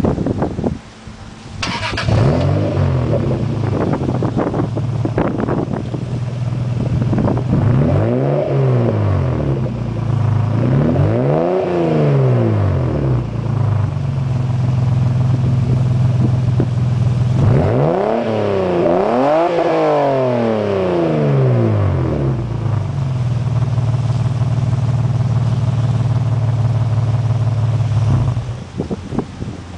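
A Toyota 2JZ-GE straight-six in a 1996 Lexus SC300 runs through a Blitz Nur Spec R cat-back exhaust with the silencer removed. It starts about two seconds in and idles steadily. It is blipped several times, pitch climbing and falling back: twice singly and then in a quick double rev. It shuts off near the end, with wind noise on the microphone.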